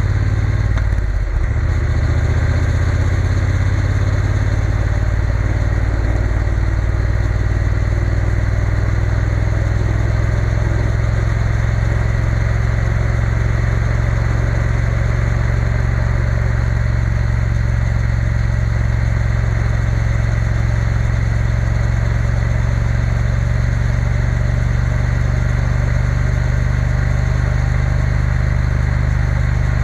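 Triumph Bonneville T120's parallel-twin engine running at a steady speed, with a brief change in the engine note about a second in.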